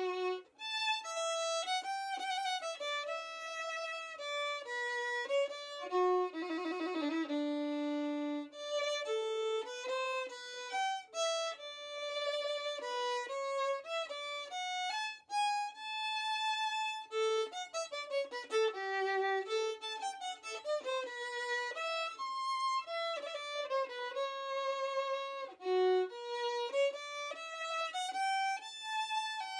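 Background music: a solo violin melody, with a fast trill about seven seconds in.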